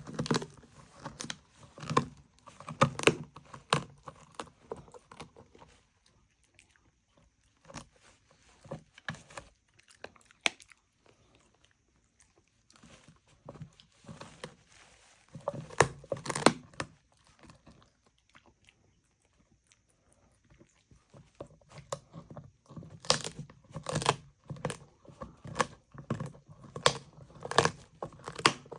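A dog chewing and crunching its food in bouts of sharp, irregular crunches, with pauses of a few seconds between bouts.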